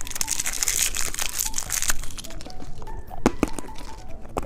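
Plastic candy wrapper crinkling and tearing as it is opened: a dense crackle for about two seconds, then a few separate clicks.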